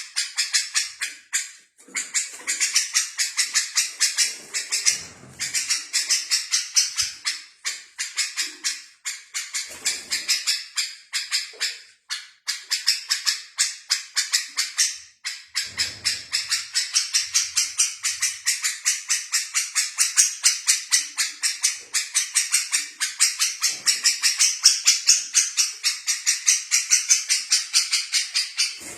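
Small songbird singing a long, fast run of repeated high chirps, about four to five a second, with a few short pauses.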